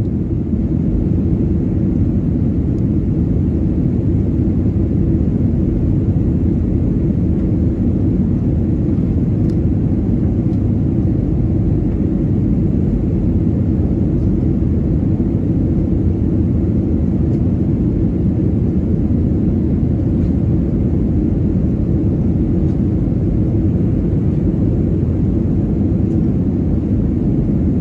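Steady, even rumble of a Boeing 737-900ER in flight, heard from inside the passenger cabin: the engines and the airflow over the fuselage.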